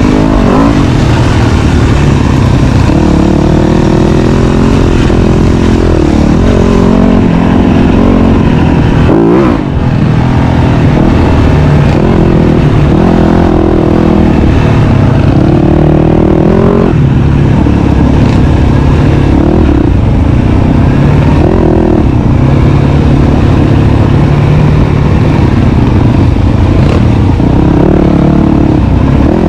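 Dirt bike engine running under load on a trail ride, its pitch rising and falling again and again as the throttle is opened and closed, with a short let-off about nine seconds in.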